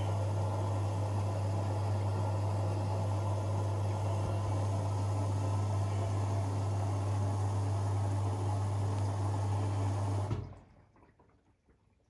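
Privileg 5020 washing machine with water rushing through it and a strong steady hum from its valve or pump. The sound stops abruptly about ten seconds in.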